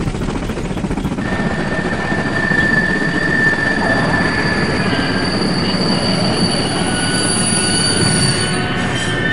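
Train running with a rumble, its wheels squealing in high, steady tones on a sharp curve from about a second in, dying away near the end.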